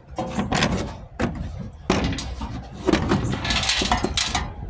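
Sheet-metal furnace blower parts clanking and rattling as they are handled: irregular knocks, a sharp clank about two seconds in and a longer rattle near the end.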